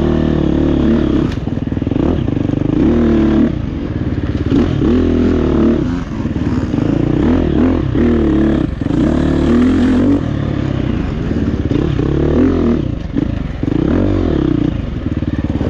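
GasGas EX350F dirt bike's single-cylinder four-stroke engine revving hard and dropping back again and again, its pitch rising and falling every second or two as the throttle is worked on the trail.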